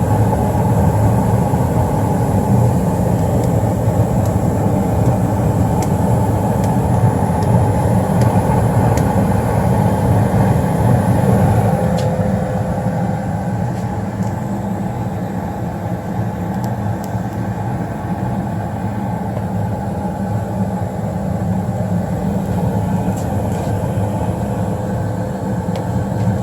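Newly installed 90% gas furnace running: a loud, steady hum of its burners, inducer and blower, with a few faint clicks and a slight drop in level about halfway through.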